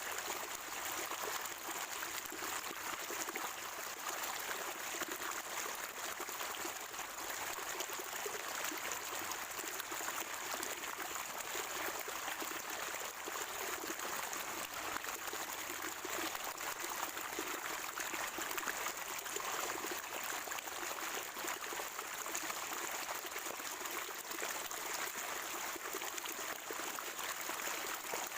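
Water at a natural spring trickling and gurgling steadily, with a steady high-pitched hiss above it.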